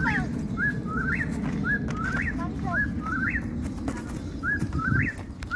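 Bird-like chirping in an even, repeating pattern: short high-pitched whistled notes that sweep upward, about two a second, over a steady low rumble.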